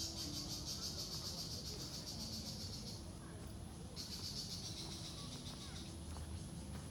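Insects trilling: a high, rapidly pulsing buzz that stops about three seconds in and starts again a second later for about two more seconds.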